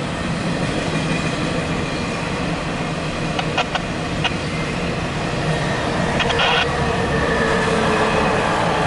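Intermodal freight train's cars rolling past on the rails: a steady rush and rumble of steel wheels on track, with brief sharp metallic clinks about three and a half seconds in and again past six seconds.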